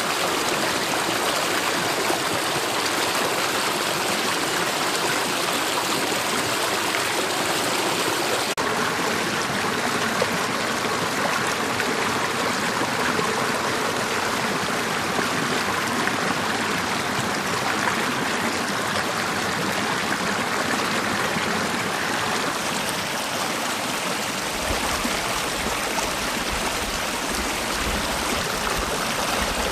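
Mountain valley stream running over rocks: a steady, even rush of flowing water. A low rumble comes in near the end.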